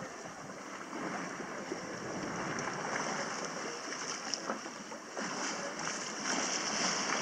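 Water rushing and gurgling along the hull of a sailboat moving slowly under sail: a steady hiss with small splashes, a little louder in the second half.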